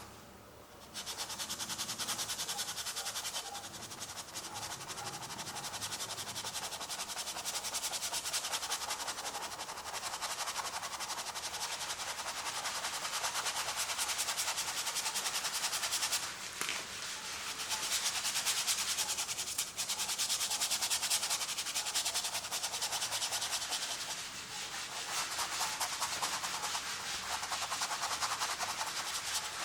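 Acrylic paint being rubbed onto a canvas: a steady rubbing that starts about a second in and pauses briefly a few times in the middle.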